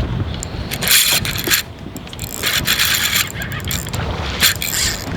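Strong wind buffeting the microphone in a constant low rumble, broken by short rushing hisses about a second in, around three seconds and near the end.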